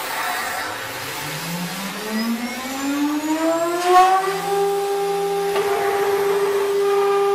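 CNC engraving machine spindle spinning up: after a brief hiss at the start, a whine rises steadily in pitch for about four seconds, then holds at a steady pitch as the spindle reaches running speed, with a single click about four seconds in.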